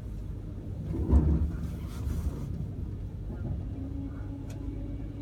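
Low, steady rumble inside the carriage of a Pendolino electric train (Class 390), with a louder low thud about a second in and a steady hum that comes in near the end.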